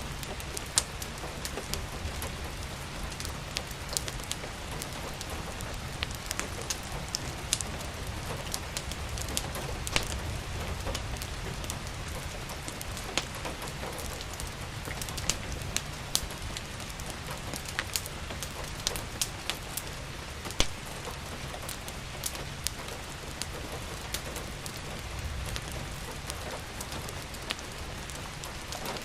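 Steady rain with the scattered sharp pops and crackles of a wood fire over a low rumble.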